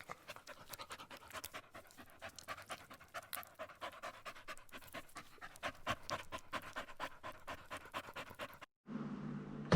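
A dog panting quickly, several breaths a second, cutting off abruptly near the end.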